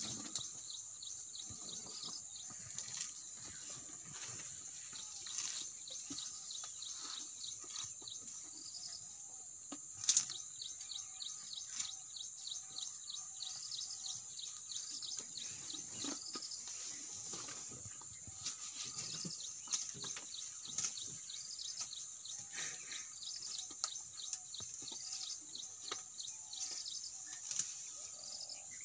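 Birds calling with short, repeated chirps over a steady high-pitched whine, with scattered rustles and one sharp knock about ten seconds in.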